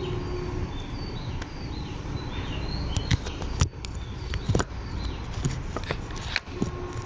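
Tobu 9000 series electric commuter train heard from inside the car: a steady low running rumble with scattered clicks and knocks. A single steady hum stops just after the start and comes back near the end.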